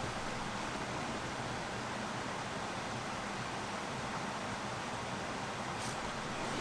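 Steady rain falling: an even, continuous hiss with no rhythm, plus a faint short tick near the end.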